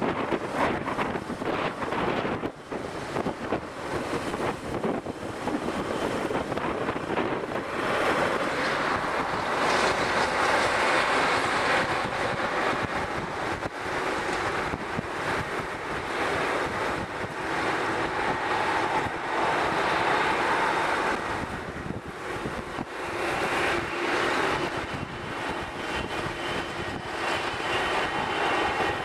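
Strong wind buffeting the microphone over the rushing noise of jet airliner engines. In the last few seconds a steady engine whine comes through as the jet noise grows.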